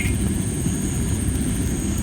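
Tree-of-heaven (Ailanthus) wood campfire burning with a steady low rush of flame and a small crackle right at the start. Insects sing steadily in two high, thin tones over it.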